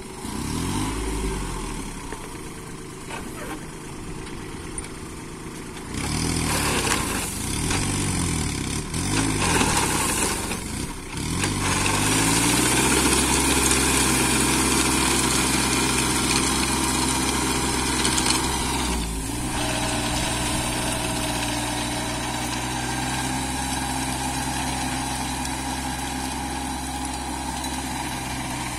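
Kubota 21 hp compact tractor's diesel engine running, its pitch rising and falling over the first dozen seconds, then holding steady.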